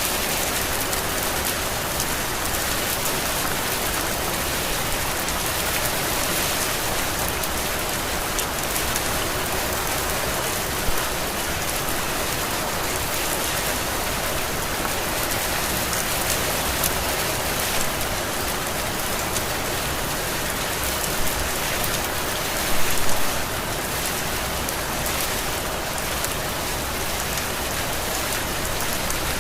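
Heavy rain falling steadily on foliage and surfaces. A few louder drops or splashes stand out, one about eleven seconds in and a brief cluster a little past the two-thirds mark.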